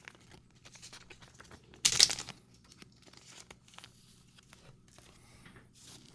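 Trading cards and pack wrapper being handled: light rustling, sliding and small clicks, with one louder paper-like rustle about two seconds in.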